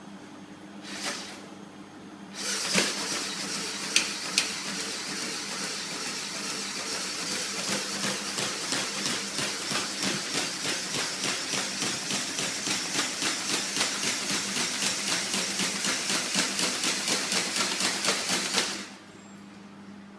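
Magnet-engine ornithopter wing mechanism running: a rapid, even mechanical clatter with a hiss, starting about two seconds in and cutting off suddenly near the end. Two sharp clicks come shortly after it starts, over a steady low hum.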